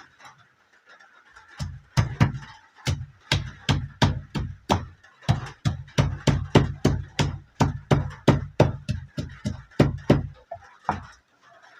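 Heavy, rhythmic strikes on a hard kitchen surface, about three a second, each with a dull thud, as food is pounded or chopped; they start under two seconds in and stop about a second before the end.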